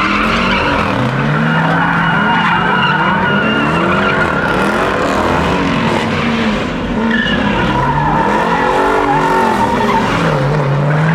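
A car spinning its tyres in a skid, the tyres squealing steadily while the engine revs up and down over and over.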